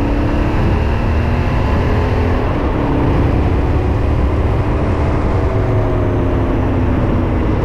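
Yamaha Ténéré 700's 689 cc parallel-twin engine running steadily under way at road speed, still being run in, with wind noise rushing over the on-bike microphone.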